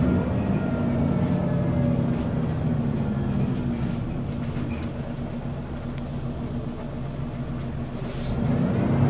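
Scania L94UB city bus with a ZF automatic gearbox: engine and driveline whine falling in pitch and getting quieter as the bus slows, running low for a few seconds, then rising again near the end as it pulls away.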